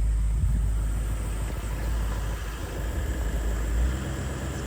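Toyota LandCruiser 200 Series engine running slowly or idling, heard through an open side window, with a heavy low rumble that eases near the end.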